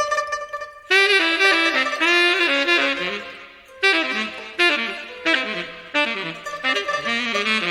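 Solo saxophone playing expressive melodic phrases with bends in pitch, stopping briefly for a breath about three seconds in before going on.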